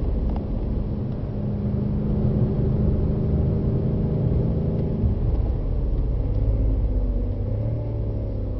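BMW M5 engine and road noise heard inside the cabin at high track speed. The engine note changes about five seconds in as the car slows from about 170 to about 110 km/h.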